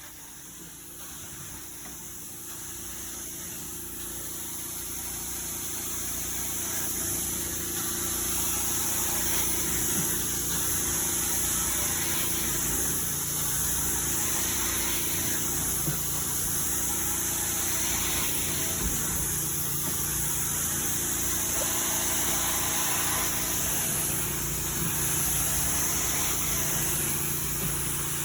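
Carpet-cleaning vacuum running: a steady high hiss of rushing air over a low steady hum. It starts suddenly and builds in loudness over the first several seconds, then holds level.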